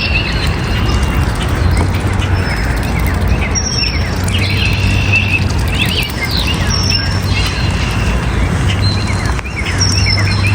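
Many small birds chirping and calling at once, quick high chirps and sweeps overlapping, over a steady low rumble.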